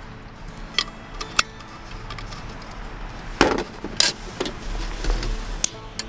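A handful of separate knocks and clinks of hard objects being handled and set down, the loudest about three and a half seconds in, over a faint steady background.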